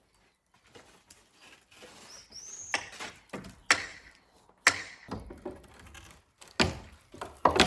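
Wooden cladding boards being knocked and pried off a timber wall: a series of sharp knocks on wood, about five in all. A short squeak, like a nail pulling out of the wood, comes about two and a half seconds in.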